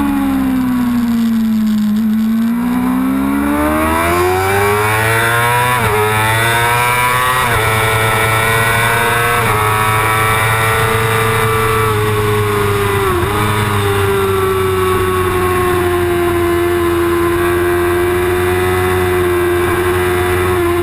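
Yamaha R6 sport bike's inline-four engine at racing revs. The pitch drops for about two seconds, then climbs with several quick dips as it shifts up. It then holds at high revs with one more brief dip, under steady wind rush.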